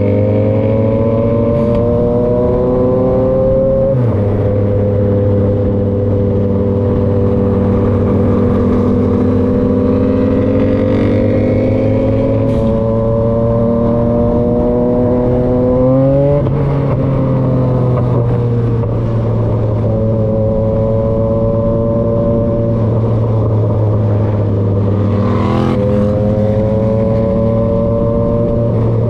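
Yamaha XSR900's three-cylinder engine through an SC-Project CRT aftermarket exhaust under way. Its pitch climbs steadily as it pulls, then drops sharply at each of several gear changes.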